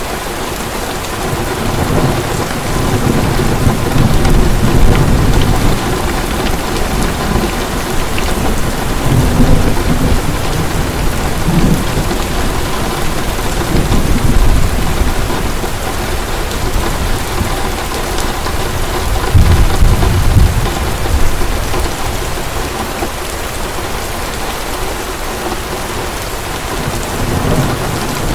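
Heavy rain falling steadily, with rolling thunder swelling and fading several times, loudest about two-thirds of the way through.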